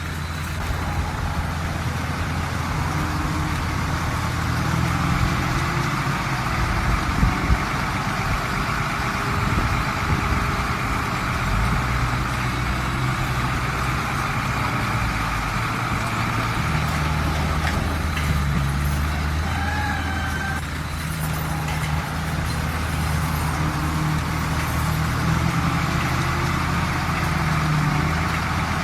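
Heavy diesel earthmoving machine's engine running steadily at work, its low drone shifting in strength now and then.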